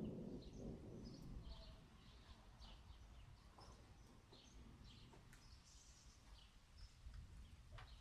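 Faint, short bird chirps repeating throughout, over the low rumble of thunder dying away in the first second.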